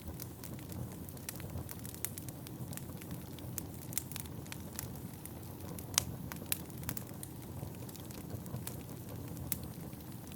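Wood fire burning in an indoor fireplace: a steady low rumble of flames with irregular sharp crackles and pops from the burning logs, the loudest pop about six seconds in.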